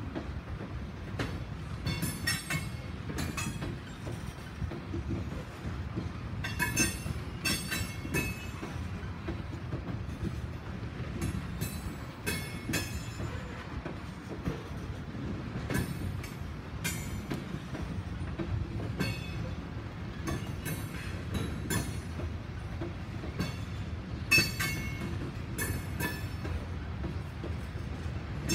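Norfolk Southern freight train's covered hopper cars rolling past: a steady low rumble with irregular wheel clicks and clanks, and several brief high metallic squeals from the wheels.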